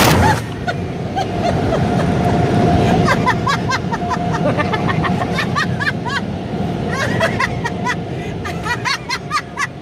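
Automatic car wash heard from inside the car: a loud rush of spray or air cuts off at the start. A low rumble and a faint steady whine run on after it, and from about three seconds in there is a run of short squeaky chirps.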